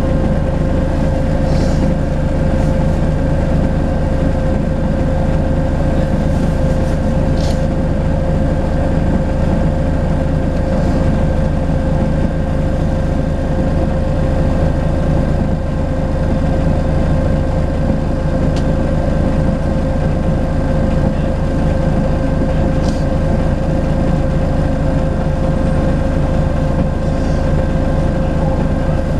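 Volvo B10BLE bus's six-cylinder diesel engine running steadily, its note not rising or falling, with a few faint brief ticks.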